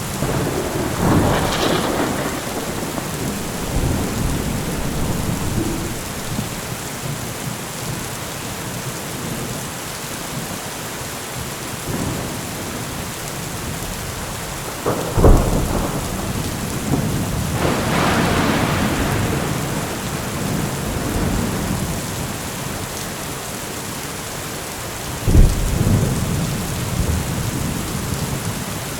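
Steady rain falling, with thunder: rolling rumbles near the start and about halfway, and two sharp, close claps about midway and near the end.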